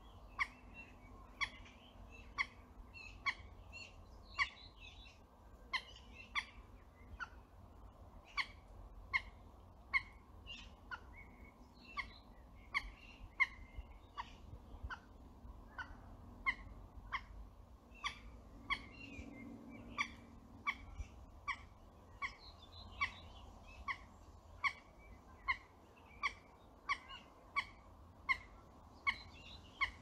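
A wetland bird repeating a short, sharp call about once a second, with fainter twittering birdsong behind it.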